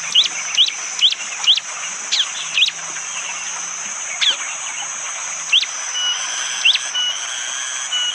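Prenjak jali (a prinia) calling. First comes a fast run of sharp, rising chirps, about four a second, for a second and a half, then single chirps spaced a second or more apart. A steady high hiss of forest ambience runs underneath, and from about six seconds in a short, level whistled pip repeats about once a second.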